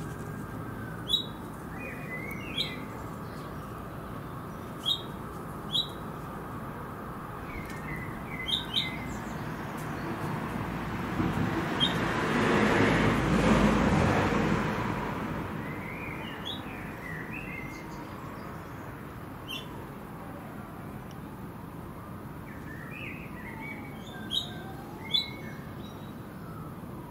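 Small birds chirping in short, scattered calls over a steady outdoor background. Around the middle, a broad rush of noise swells and fades, becoming the loudest sound for a few seconds.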